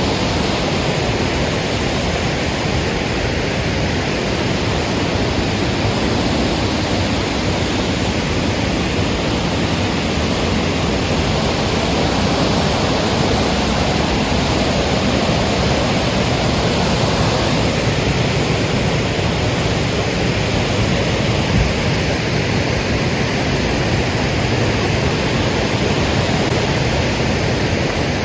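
Cascade waterfall pouring steadily, a loud, even rush of falling water.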